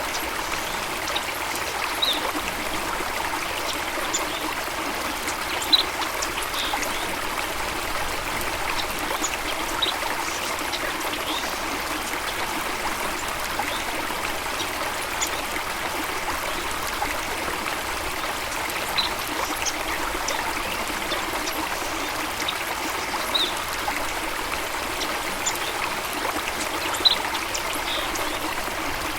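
Water running and trickling steadily, with brief high plinks every few seconds.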